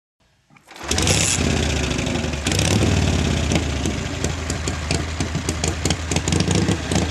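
Indian Scout's side-valve V-twin motorcycle engine starting up about half a second in, then running with a rough, uneven firing beat.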